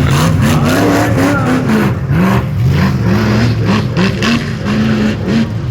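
Off-road rough truck's engine revving hard in short bursts, its pitch climbing and dropping again and again as the driver blips the throttle to work the truck over the obstacles.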